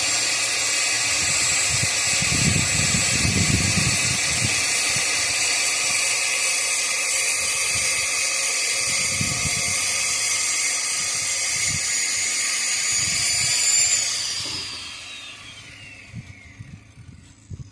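A small high-speed power tool motor spinning up to a steady high whine, running for about fourteen seconds, then winding down with falling pitch as it coasts to a stop.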